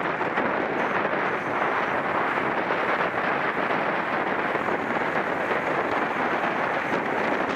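Steady rush of wind over the microphone of a camera riding along on a road bicycle at racing speed, even and unbroken.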